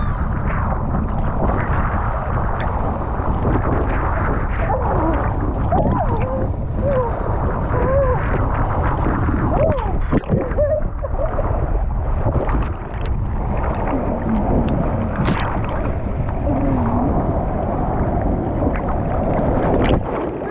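Water rushing under a foam mat sliding down a water slide, with wind buffeting a handheld GoPro's microphone. It is a loud, steady rush, with a few short pitched cries over it.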